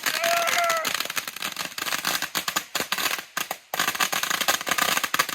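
Close-range fireworks going off: a dense, rapid crackling of many small pops. A short pitched tone sounds over it in the first second, and the crackling briefly cuts out a little past three seconds in.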